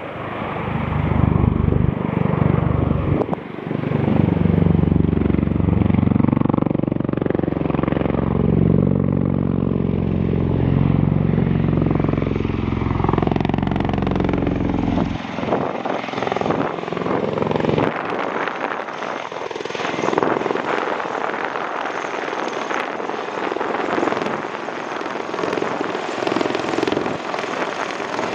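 Osprey tiltrotor aircraft flying past with a loud, deep rotor throb whose pitch bends as it passes. About fifteen seconds in the deep rumble falls away, leaving a thinner, higher engine and rotor noise.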